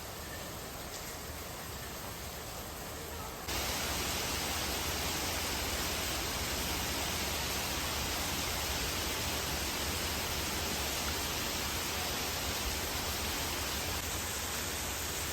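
Steady hiss of rain falling during a thunderstorm, jumping suddenly louder about three and a half seconds in.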